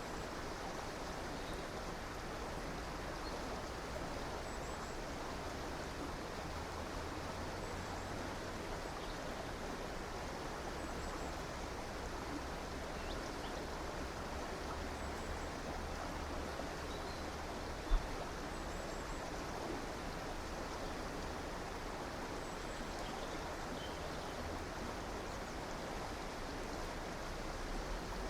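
A stream rushing steadily, with faint short high chirps every few seconds and a single brief low thump partway through.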